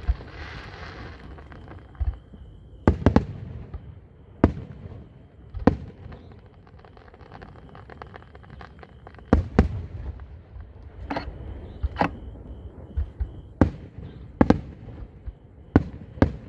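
Aerial fireworks shells bursting high overhead: about a dozen sharp bangs at uneven intervals, several in quick pairs, over a low rumble, with a brief hiss under a second in.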